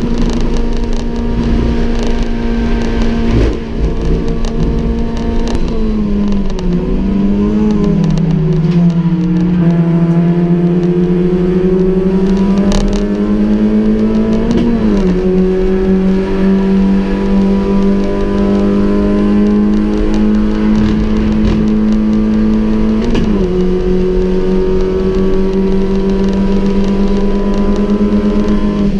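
A Honda Jazz race car's four-cylinder engine, heard from inside the cabin, running hard at high revs. The pitch dips and wavers once early on. It drops sharply with a gear change about halfway, climbs slowly, and drops sharply again with another shift later.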